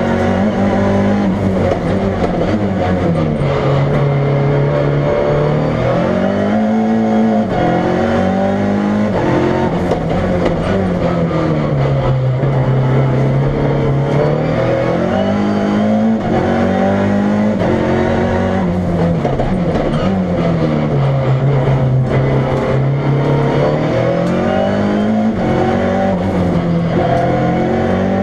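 1.4-litre turbocharged four-cylinder Fiat Uno Turbo engine of a Fiat Punto proto race car, run hard through a slalom. It is loud throughout, and its pitch climbs and drops every few seconds as the driver accelerates, lifts and changes gear.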